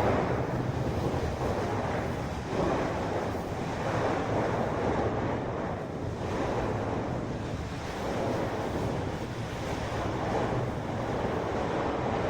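Storm wind and heavy seas at sea, with wind buffeting the microphone; the rushing noise swells and eases every second or two over a faint low steady hum.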